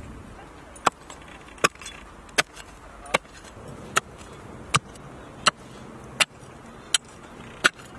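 A hand digging tool striking the ground in steady, evenly paced blows, about ten sharp strikes a little over one a second, as a small fire pit is dug.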